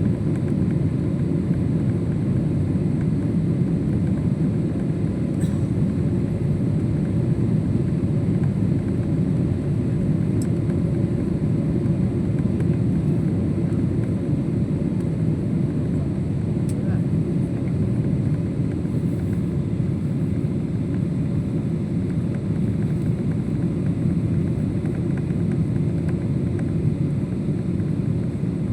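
Steady roar of a Boeing 777 airliner in flight, heard inside the cabin: engine and airflow noise that holds constant, with a few faint ticks.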